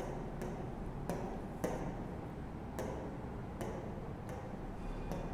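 A series of light, sharp taps or ticks, roughly one every two-thirds of a second at slightly uneven spacing, over a steady low hum.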